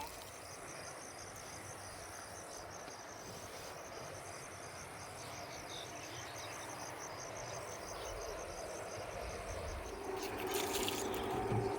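Insects chirping in a fast, even high-pitched pulse over a soft steady hiss; a low steady hum comes in near the end.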